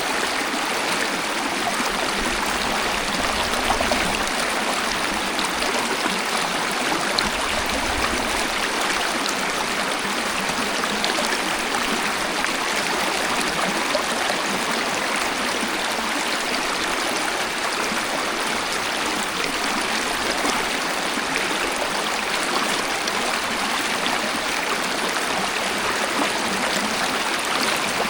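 Waterfall: a steady rush of falling and splashing water, even throughout, with little deep rumble.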